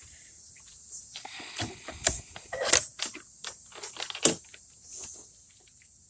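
Irregular clicks and rustles close to the microphone, the loudest about two, two and a half, and four seconds in: handling noise.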